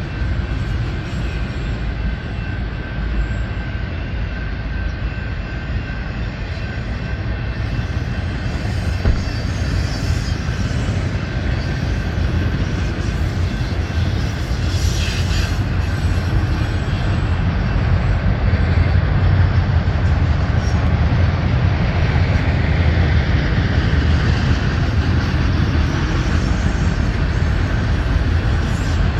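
Union Pacific autorack freight cars rolling past: a steady low rumble of steel wheels on rail that grows a little louder past the middle, with a faint, thin, steady high tone above it.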